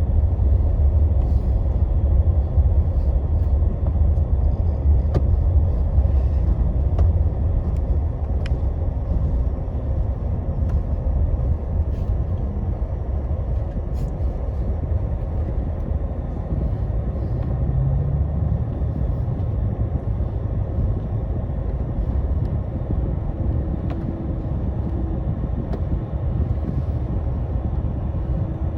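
Scania Astromega double-decker coach on the move, heard from inside the cabin: a steady low engine and road rumble, with a few faint ticks and a faint humming tone in the second half.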